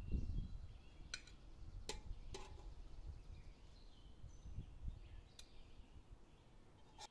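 Small birds chirping faintly outdoors, over low rumbling that is loudest at the start, with a few sharp light clicks scattered through.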